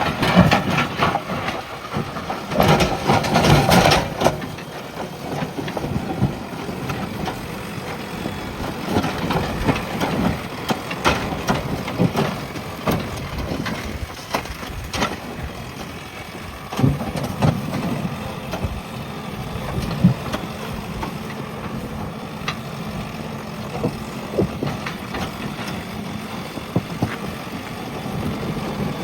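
JCB backhoe loader's diesel engine running under load as it works, with cracking and crunching of brush, branches and soil scattered throughout. It is loudest and busiest for the first few seconds, then runs steadier.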